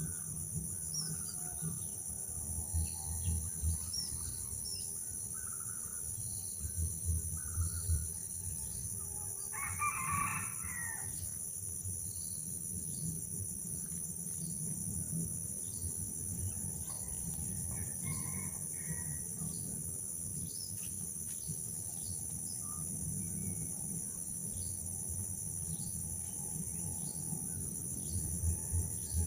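A rooster crowing a few times, each crow lasting a second or two, over a steady high-pitched hiss and some low thumps.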